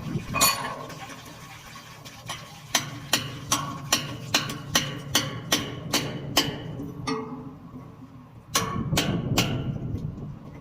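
Repeated sharp knocks, about two and a half a second for several seconds, like a hammer striking metal during repair work. Near the end comes a louder rough, scraping noise.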